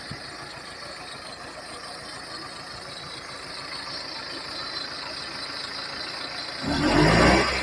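Komatsu D31P bulldozer's diesel engine running faintly and steadily, then about six and a half seconds in a sudden loud surge lasting under a second, after which it keeps running steadily and louder.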